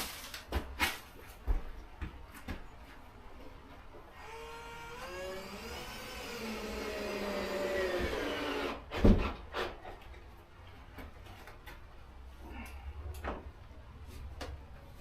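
Cordless drill driving a screw. The motor whine rises about four seconds in, runs for about four seconds, then winds down, followed by one sharp knock. A few light knocks come before and after it.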